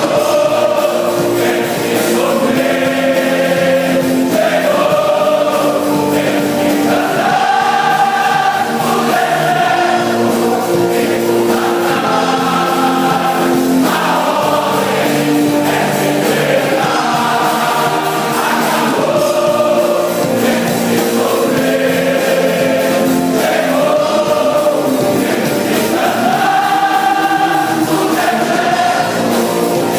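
Gospel choir singing a hymn over instrumental accompaniment, with long held notes.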